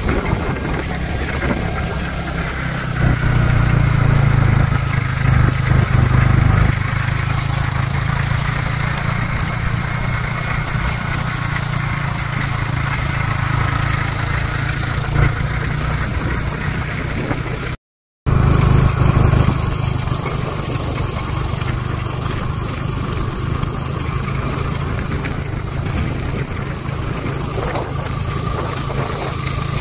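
Yamaha R15 V3 motorcycle's single-cylinder engine running steadily, a little louder a few seconds in. The sound cuts out completely for a split second just past halfway.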